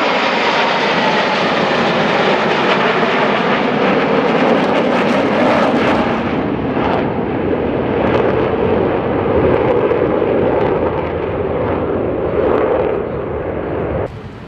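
Loud engine noise of an aircraft flying past in a display, with a whine falling slightly in pitch at the start; it cuts off suddenly near the end.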